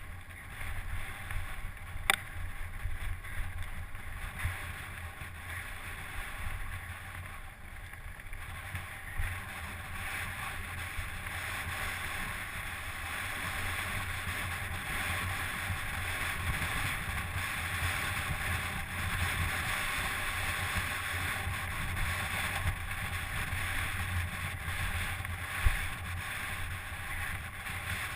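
Steady rushing wind noise on the microphone, with a low rumble underneath, growing a little stronger after about ten seconds; a single sharp click about two seconds in.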